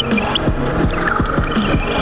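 Electronic music played live on analog synthesizers and a drum machine: a fast pulsing bass line of notes that each drop sharply in pitch, with short chirping high blips and a held mid-range tone over it.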